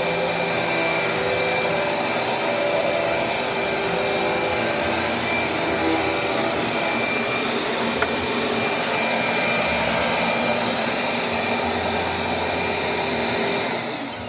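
Vacuum cleaner running steadily with a motor whine. It is switched off near the end, and the sound drops away as the motor starts to wind down.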